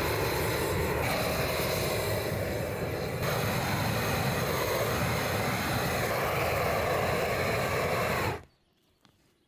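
Gas burner torch roaring steadily as it chars the ends of log posts, a loud, even rushing noise with a deep rumble; it stops abruptly about eight seconds in.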